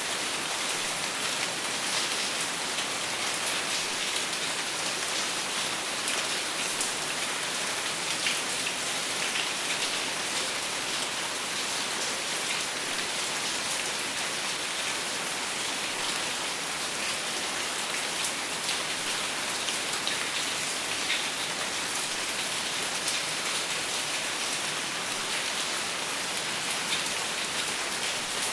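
Steady rain falling without thunder, an even hiss with fine drop ticks throughout.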